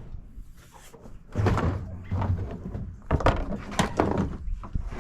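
Irregular knocks and clanks of metal parts being handled while a scrapped household appliance is taken apart, with a sharp knock about a second and a half in and two more near three and four seconds.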